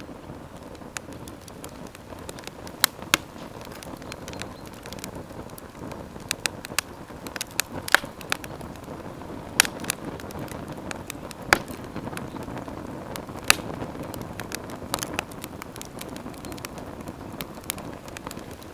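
Campfire crackling: sharp irregular pops and snaps, a few much louder than the rest, over a steady low rushing of the flames.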